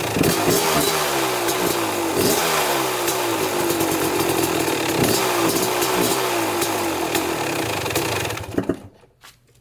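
1995 Kawasaki KX250's single-cylinder two-stroke engine running just after a cold first start, its revs rising and falling again and again on the throttle, with the idle not yet adjusted. The engine sound cuts off near the end.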